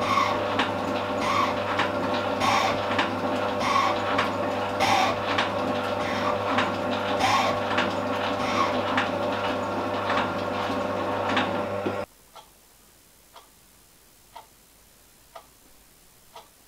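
A metalworking machine tool running, with a steady motor hum and a regular stroke about every 1.2 seconds, that shuts off suddenly about twelve seconds in. After it stops, only a faint tick about once a second is left.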